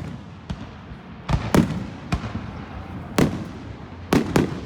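Fireworks display: about seven sharp bangs at irregular spacing, each with a short rumbling tail.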